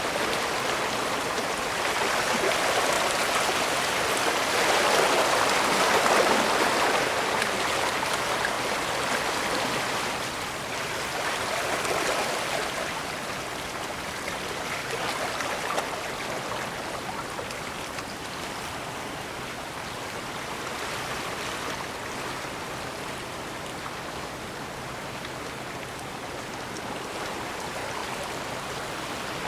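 Water washing and rushing along a bay shoreline, a steady wash that swells louder a few seconds in and again near the middle, then settles softer.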